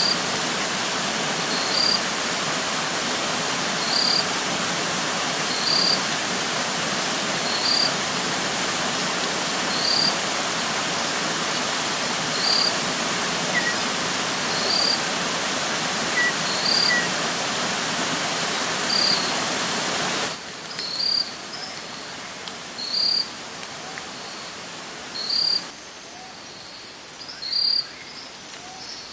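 Rain-swollen creek water running, a steady even rush, with a short high chirp repeating about every two seconds. About two-thirds of the way through, the water sound drops away suddenly, leaving a quieter background where the chirps come faster.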